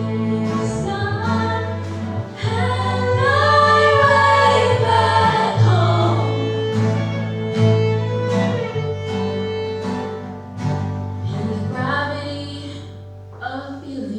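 Song with voices singing together over acoustic guitar and held low bass notes, with some bowed strings.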